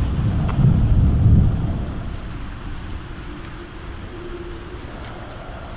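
Thunder rumbling over steady rain: the low rumble is loudest in the first second and a half, then dies away, leaving the rain's even hiss.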